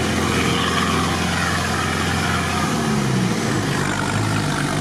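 Off-road 4x4's engine running under load, heard from inside the cab over a steady wash of tyre and water noise as it drives through a flooded track. The engine note drops about three seconds in.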